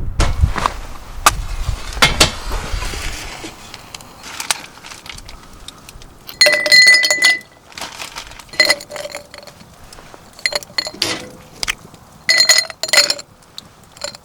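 Hard objects clinking together in four short bursts, each clink leaving a brief ringing tone; wind rumbles on the microphone for the first few seconds.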